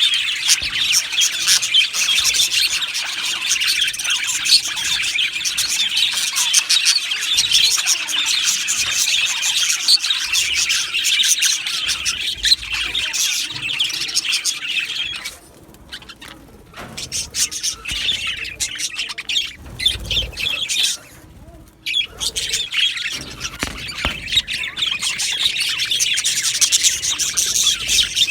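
A flock of budgerigars chattering and chirping in a dense, continuous mass of calls. About halfway through it thins to scattered calls for several seconds, then the full chatter returns.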